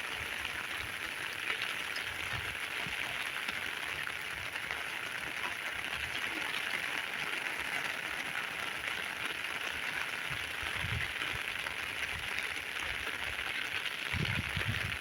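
Heavy rain falling steadily, an even hiss, with a few low rumbles near the end.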